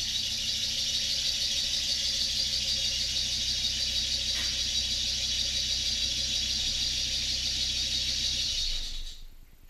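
A machine running steadily with a loud hiss over a low hum, cutting off about nine seconds in.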